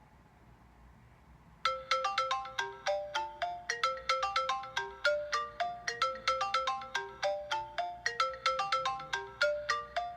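iPhone 6s Plus ringtone playing: a quick melody of short, bright, struck notes, several a second, starting about a second and a half in and stopping near the end.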